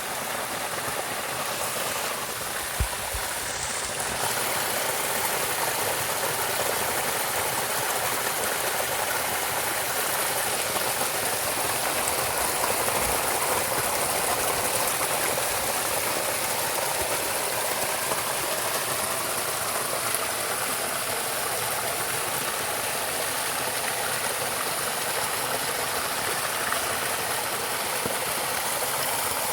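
Steady rush of a flowing stream, with one brief click about three seconds in.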